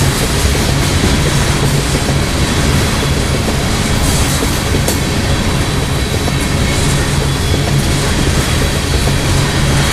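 Oil-train tank cars rolling steadily past close by on a curved track: a continuous rumble and rattle of steel wheels on the rails.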